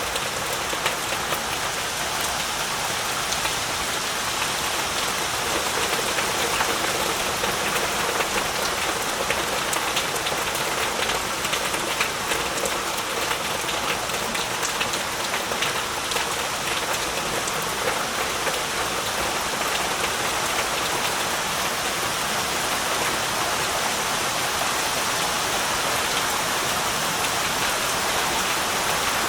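Heavy rain falling steadily, a dense even hiss of countless drops with fine individual drop ticks.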